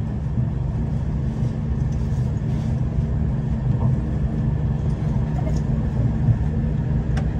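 V/Line diesel passenger train running, heard from inside the carriage: a steady low engine hum and rumble that does not change. A single sharp click comes near the end.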